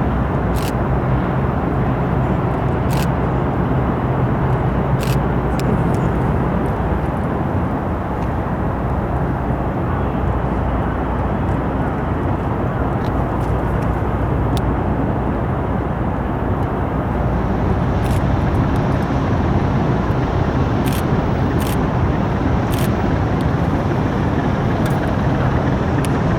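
Steady, loud engine rumble with a low hum under a rushing noise, and a few faint ticks.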